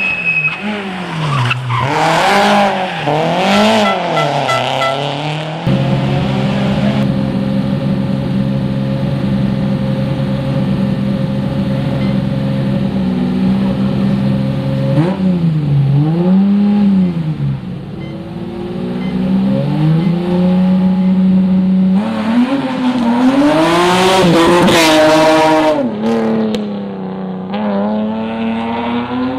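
Rally car engine revving, its pitch swinging up and down several times, then holding a long steady note through the middle before rising and falling again and climbing hard near the end.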